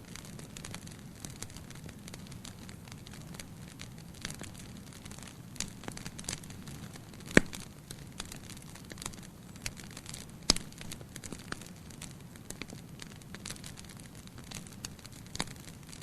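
Campfire crackling: scattered small snaps and pops over a steady low background, with two louder pops about seven and ten seconds in.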